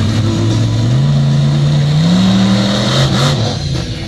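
Monster truck's engine revving hard, its pitch climbing for a couple of seconds, then dropping back near the end.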